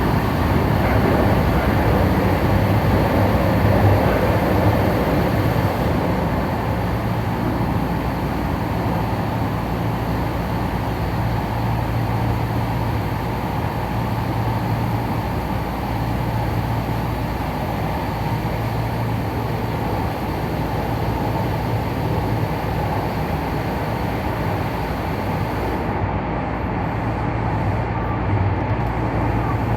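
Tokyu Den-en-toshi Line commuter train running steadily, heard from aboard: a continuous rumble of wheels and running gear, with a low hum that swells and fades.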